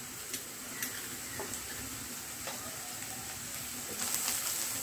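Chopped onions and spice powders sizzling steadily in hot oil in a nonstick kadhai, with a few light clicks. About four seconds in, a spatula starts stirring them and the sizzle gets louder.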